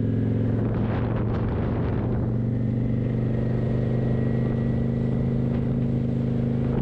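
Kawasaki motorcycle engine running steadily, with a brief unsettled stretch in its note about a second in before it settles again.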